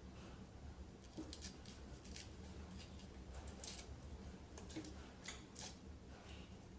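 A series of sharp, irregular clicks and snips, over a dozen, starting about a second in, over a faint steady hum.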